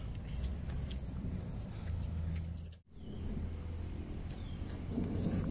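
Outdoor insect drone, likely crickets, as steady high tones over a low rumble, with a few faint clicks. The sound drops out sharply for a moment about three seconds in.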